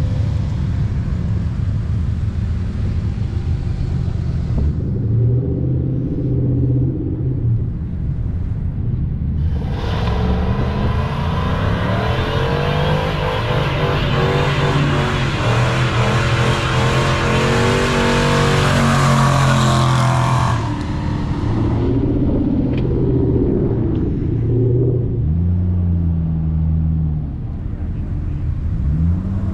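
Car engine running, its pitch rising and falling as it revs. For about ten seconds in the middle a loud rushing hiss covers it.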